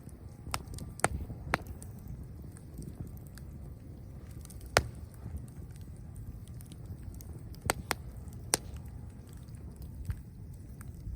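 Campfire of dead branches crackling: about eight sharp, scattered pops, the loudest about five seconds in, over a low steady rumble.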